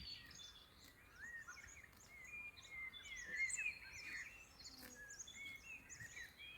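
Faint chorus of several small birds, many short chirps and quick up-and-down whistles overlapping one another.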